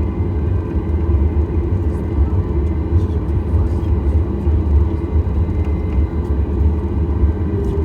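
Steady low rumble of airliner cabin noise inside a Boeing 737 MAX 8, its CFM LEAP-1B engines running, with a few faint steady tones above the rumble.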